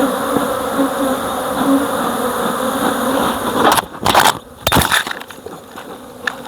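Honeybees buzzing in a swarm around an opened hive. About four seconds in there are a few loud, short noisy bursts, then the buzzing drops lower.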